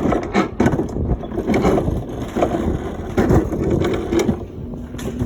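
Mountain coaster cart rattling and clattering along its rail, with many irregular knocks and clicks over a steady rumble.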